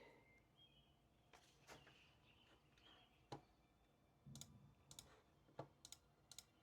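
Near silence broken by a few faint, sharp clicks and taps, about half a dozen, mostly in the second half.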